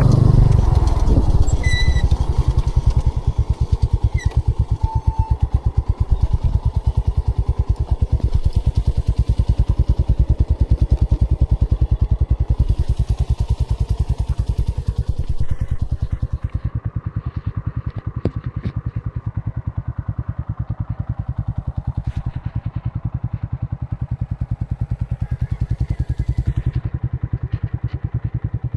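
An engine running steadily, with an even, rapid low pulse from its firing strokes. A short electronic beep sounds about two seconds in.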